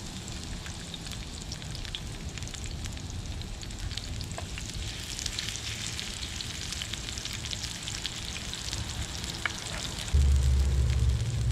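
Sliced onions sizzling as they fry in a hot cast iron pan, a steady hiss with many small crackling ticks. About ten seconds in, a loud low rumble of background noise sets in.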